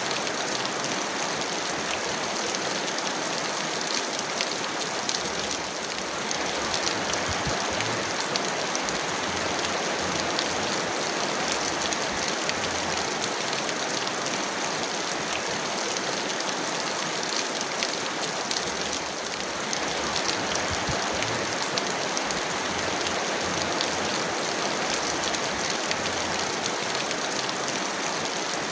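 Heavy rain falling steadily, a dense even hiss dotted with the taps of individual drops.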